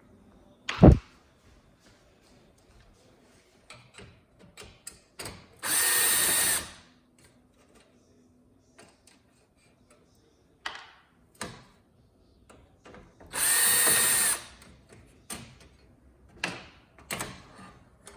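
Power drill running in two short bursts of about a second each, with a sharp knock about a second in and light clicks and knocks of handling in between.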